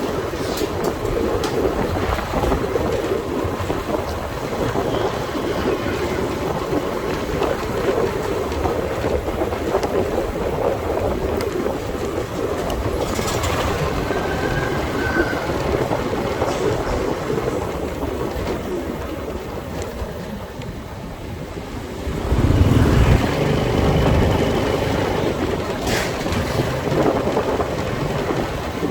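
Steady engine and road noise from a motorcycle riding through city streets. A louder low rumble rises for about two seconds roughly three-quarters of the way through.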